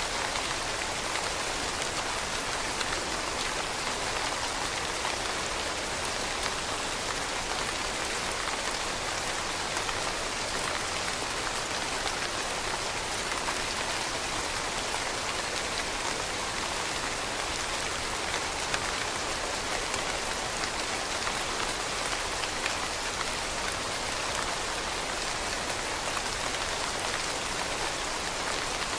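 Steady rain falling on leaves, a constant even hiss dotted with many small drop ticks.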